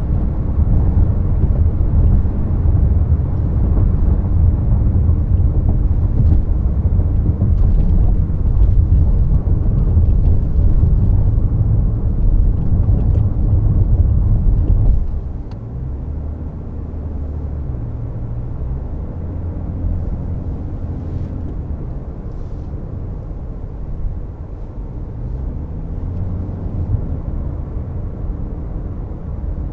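Toyota C-HR 1.8 Hybrid driving, heard from inside the cabin: a steady, loud low road-and-tyre rumble that drops off suddenly about halfway through, leaving a quieter low hum with faint steady tones.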